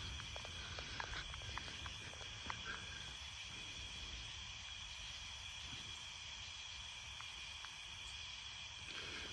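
Steady chorus of night insects, a high continuous trilling, with a few scattered faint ticks in the first three seconds.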